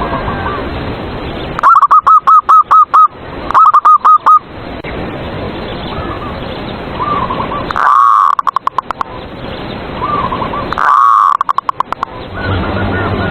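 Zebra doves (perkutut) cooing in their song: four bursts of fast repeated coo notes, about five a second, with fainter coos between them over a steady background hiss.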